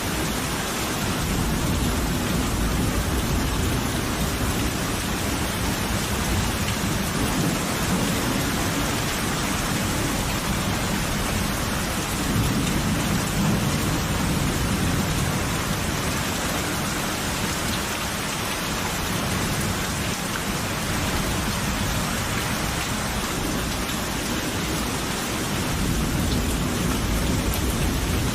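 Steady rain falling, with low rolling thunder that swells and fades several times: a few seconds in, in the middle, and near the end.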